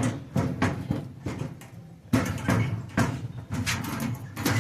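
Irregular knocks and clatters, several a second apart, from the door of a small outdoor oven being handled while a speaker is taken out of it.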